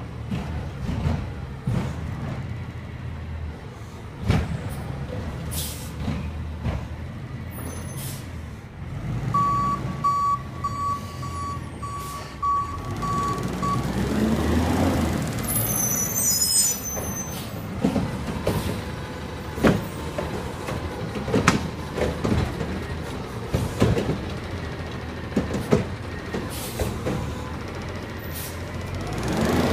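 Garbage truck's diesel engine running, with its reverse alarm beeping about twice a second for some four seconds a third of the way in. About halfway the air brakes hiss, the engine revs up twice, and a series of sharp metallic clunks comes through the second half.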